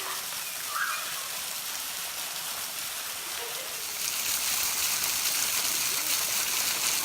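Steady rush of falling, splashing water from a waterfall and its creek, growing louder about four seconds in.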